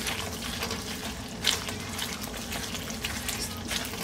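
Thick tomato-onion masala sizzling in oil in a nonstick pan as a silicone spatula stirs and scrapes through it, with scattered sharper crackles, the strongest about one and a half seconds in. The masala is being fried (bhuna) until the oil separates.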